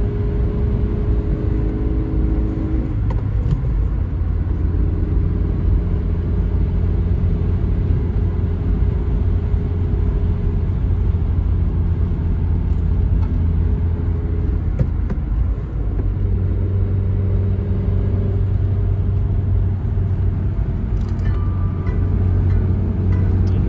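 Toyota Carina E 1.6 16-valve four-cylinder engine running under way with road noise, as a steady low drone. The engine note shifts about three seconds in and again about halfway through.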